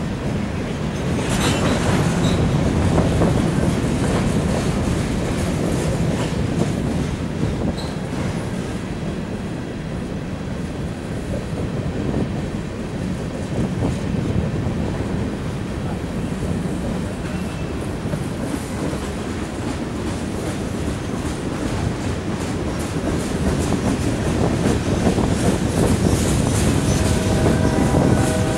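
Freight train cars, covered hoppers followed by a tank car and boxcars, rolling past close by: a steady rumble of wheels on rail with clickety-clack over the rail joints and a few sharp clicks. A train horn starts sounding near the end.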